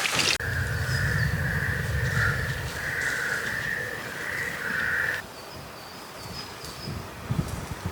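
Outdoor ambience with a pulsing insect-like buzz that stops abruptly about five seconds in, leaving faint high chirps and a few soft low thumps.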